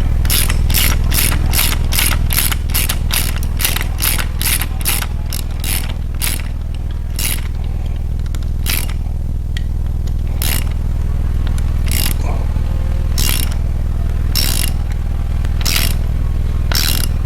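Ratchet wrench clicking as the rocker arm nuts on a Chevy 350 small-block are run down: quick back-and-forth strokes about three a second, then slower single strokes about a second apart. A steady low hum runs underneath.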